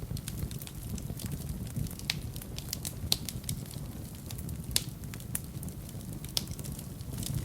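Wood fire burning in a fireplace: a steady low rumble of flames with irregular crackles and sharp pops, a few louder ones scattered through.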